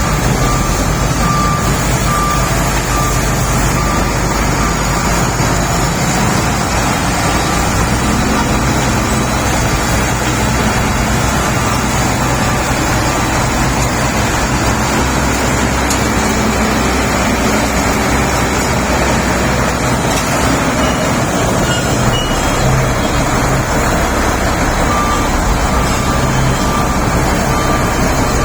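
Shantui SD32 crawler bulldozer's diesel engine running steadily, with a reverse alarm beeping at the start and again near the end.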